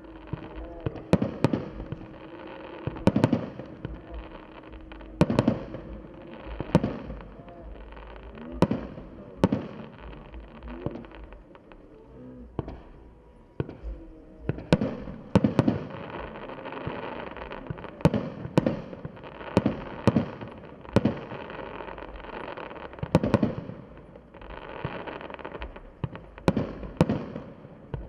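Fireworks display: shells bursting in a long irregular string of sharp bangs, one every second or two and some in quick pairs, each followed by a short rolling echo.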